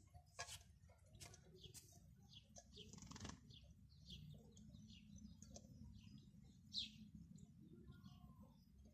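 Faint, repeated short chirps of small birds, about two a second, with a few sharp clicks from a kitten licking and nosing inside a metal food tin.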